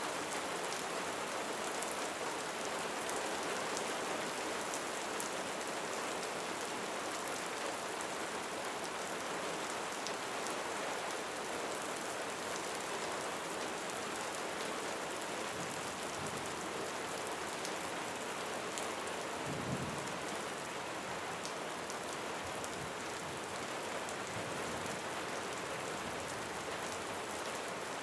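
Steady rain falling on a roof, an even patter of drops, with a brief low rumble of distant thunder about two-thirds of the way through.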